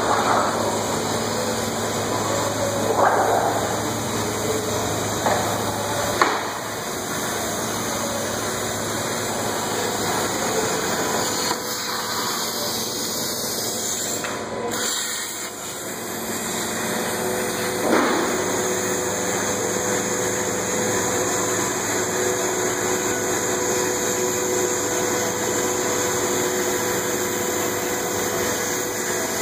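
Plasma cutting table running: a steady, hiss-like machine noise, with a low hum that stops about six seconds in and a few short knocks before that.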